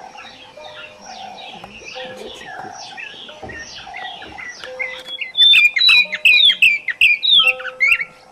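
Birds chirping: a quick run of short, downward-sliding calls that turn much louder about five seconds in, over a low, steady musical drone.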